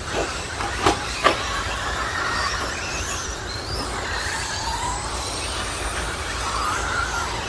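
Electric 1/10 stadium trucks with 13.5-turn brushless motors whining as they race, the pitch rising and falling with throttle. Two sharp knocks about a second in.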